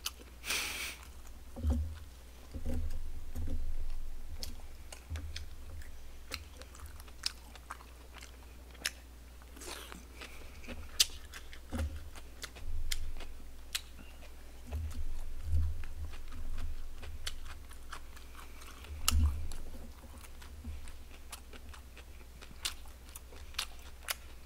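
Close-miked chewing and wet mouth clicks of a person eating barbecued pig's trotters (jokbal), with a few dull low bumps scattered through.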